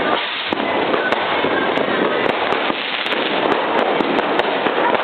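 Fireworks and firecrackers going off without pause: a dense, continuous crackle of overlapping pops and bangs, with many sharp cracks throughout.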